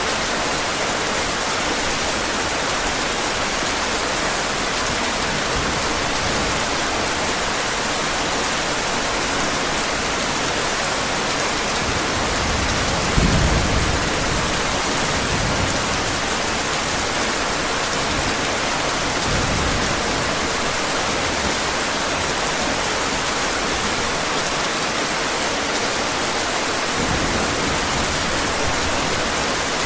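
Steady heavy rain, an even hiss, with low rumbles of thunder swelling up a few times; the loudest rumble comes about thirteen seconds in.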